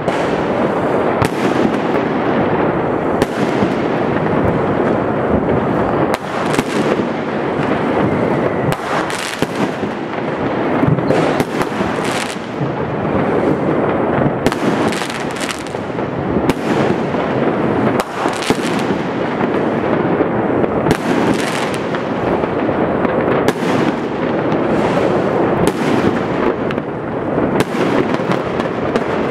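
Continuous New Year's Eve fireworks: dense crackling with frequent loud bangs of firecrackers and exploding rockets, overlapping without a break.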